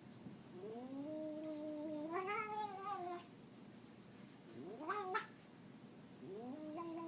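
Domestic cat yowling in drawn-out calls: a long call that climbs in pitch and then sinks, a short, sharply rising call about five seconds in, and another long call starting near the end.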